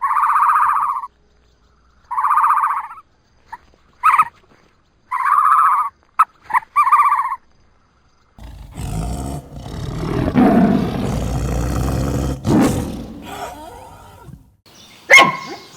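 A farm animal calling again and again: about five calls of roughly a second each, plus a few short ones, with silent gaps between. About halfway through this gives way to a longer, rougher stretch of lower animal noise, and a sharp click comes near the end.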